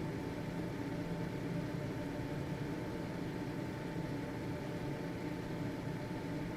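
Household ventilation fan running steadily: an even motor hum and whoosh of air with a thin steady whine.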